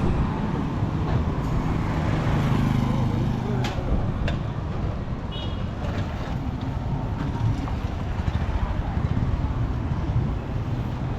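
Steady hum of a motor vehicle engine with road traffic noise. A brief high-pitched tone sounds about five seconds in.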